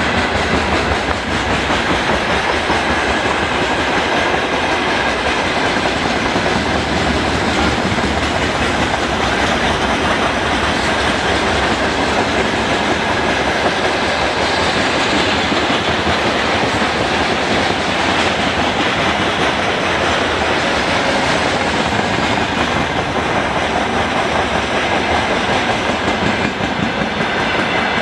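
Freight train rolling past steadily, its wagon wheels clattering over the rail joints, with a faint steady high whine.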